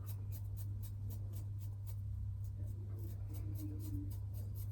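Double-edge safety razor with a Gillette Super Thin blade scraping through about a day's stubble on a lathered face, in short, quick, evenly spaced scratchy strokes, over a steady low hum.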